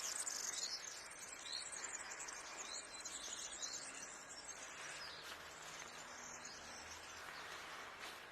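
European goldfinch twittering in quick, high chirps, busiest in the first few seconds and sparser after, over a steady background hiss.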